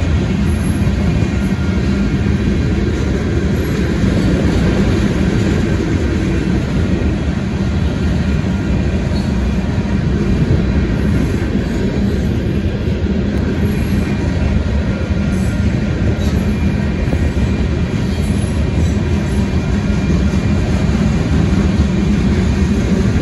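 Union Pacific freight train's gravel hopper cars rolling steadily past, a continuous rumble of steel wheels on rail.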